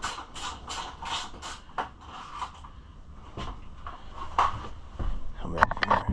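Hand tool work on a dirt bike: rasping, ratchet-like strokes about four a second, then scrapes and a few sharp metallic clicks and knocks near the end as parts are handled.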